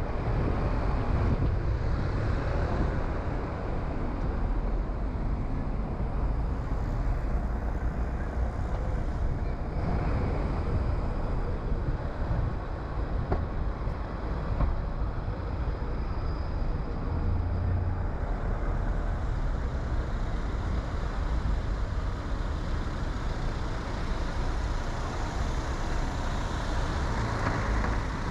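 Steady driving noise of a car on the road, engine and tyre rumble heaviest in the low end, with no marked changes.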